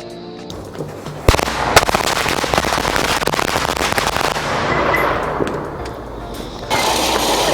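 Firecrackers going off: a sharp bang about a second in, then a rapid, dense crackle of pops that thins out after about five seconds. Near the end it cuts suddenly to a steady hiss.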